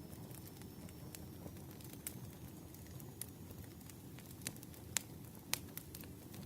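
Campfire crackling: irregular sharp pops and snaps over a low, steady rumble of burning wood, with two louder pops about five seconds in.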